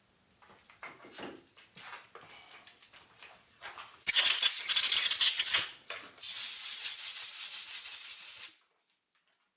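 Two blasts of compressed air from a blow gun, about a second and a half and then about two seconds, each cutting off sharply, clearing chips out of a freshly tapped hole. Light clicks and scrapes of metal handling come before them.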